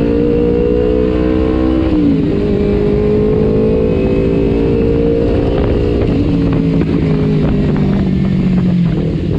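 Kawasaki Ninja 250 FI parallel-twin running through an R9 H2 aftermarket exhaust while riding: the engine note climbs, drops sharply at a gear change about two seconds in, climbs again, then falls away slowly as the bike slows.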